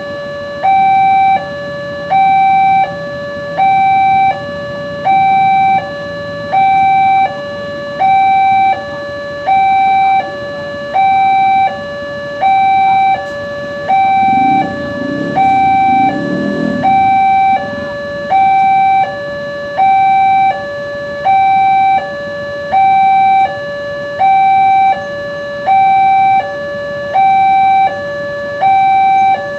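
Railroad level-crossing warning alarm sounding a steady two-tone hi-lo signal, alternating between a higher and a lower tone about every 0.7 seconds, the signal that a train is approaching and the crossing is closed. Partway through, a low rumble of a passing vehicle rises under it and fades.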